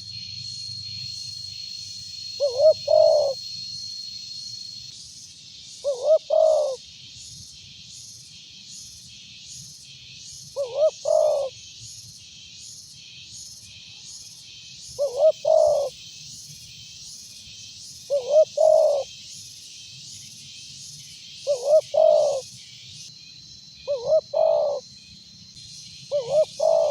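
Spotted dove (tekukur) cooing loudly and repeatedly, a short phrase of several coo notes every three to four seconds. Behind it runs a steady high-pitched chirping pulse at about two a second.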